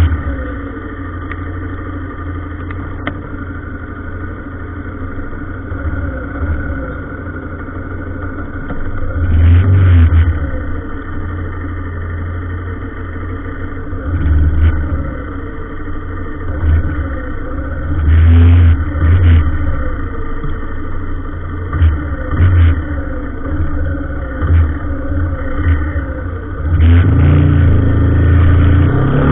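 Motor vehicle engines running in slow road traffic, a steady low drone with swells of louder rumble as vehicles accelerate, about ten seconds in, near the middle and again near the end.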